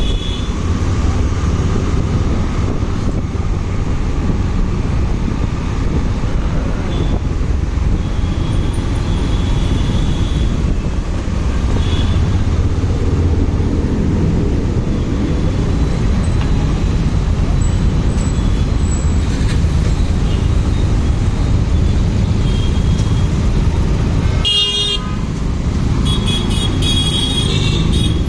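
Motorcycle riding through traffic, with a steady low rumble of engine and wind. Vehicle horns honk briefly several times near the end.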